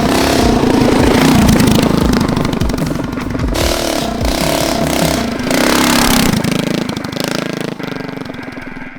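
Mini trike's 212cc Predator Ghost single-cylinder engine revving up and down as it is ridden, fading from about six seconds in.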